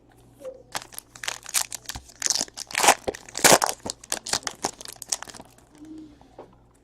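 Crinkling and tearing of trading-card packaging being handled, a dense run of quick crackles lasting about four and a half seconds, loudest in the middle before it dies away.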